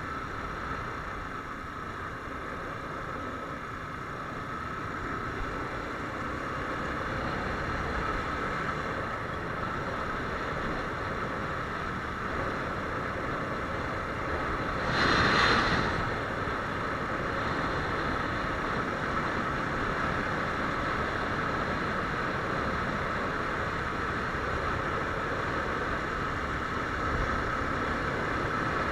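Viper R2 motorcycle underway, its engine running steadily under a constant rush of wind noise on the microphone. About halfway through, a brief louder whoosh rises and falls.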